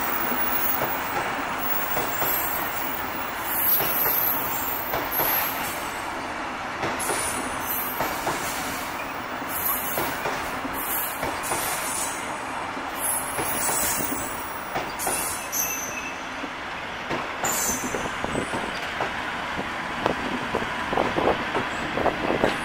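Rail grinder train rolling past: a steady rumble of wheels on rail with repeated short, high-pitched wheel squeals. Near the end a quick run of sharp clicks comes as the wheels of the Class 50 locomotive at the rear pass over the rail joints of the level crossing.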